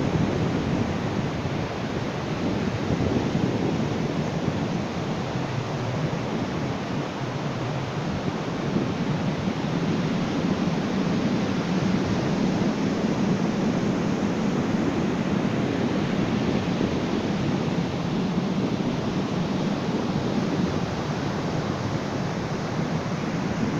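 Ocean surf washing onto a beach: a steady rush of waves that swells and ebbs slowly.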